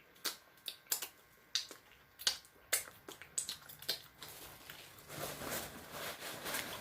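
Close-miked mouth sounds of eating chicken wings: scattered wet clicks and smacks, turning to denser, continuous chewing noise from about five seconds in.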